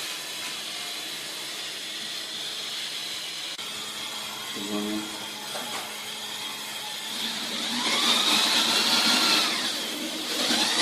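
Steady hissing noise, then from about seven seconds in an electric power tool runs louder, its motor whine bending up and down in pitch as it speeds up and slows.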